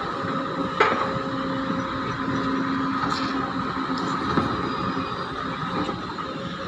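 Heavy excavator running, a steady engine drone with whining tones, and one sharp knock about a second in.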